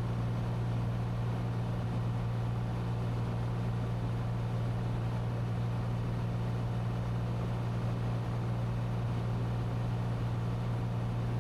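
Cessna 182T's six-cylinder engine and propeller droning steadily in level cruise, heard from inside the cabin.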